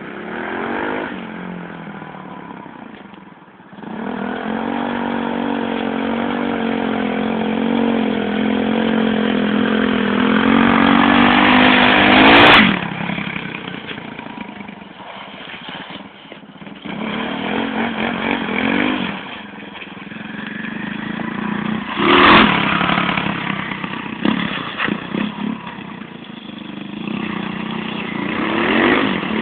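Dirt bike engine revving up and down as the bike is ridden. It is loudest in two short peaks, about twelve seconds in and again about twenty-two seconds in.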